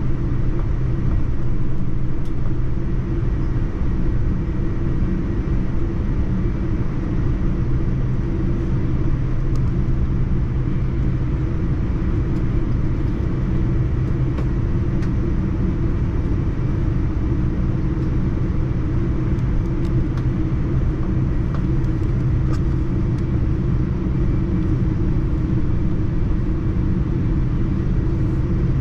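Steady rumble of a Boeing 787-9 airliner's engines and airflow heard from inside the cabin, with a constant low hum and no change in pitch.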